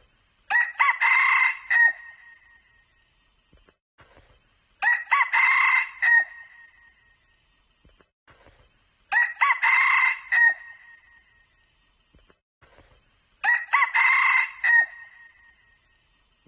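Red junglefowl rooster crowing, four crows in a row, evenly spaced about four seconds apart. Each crow is short and clear.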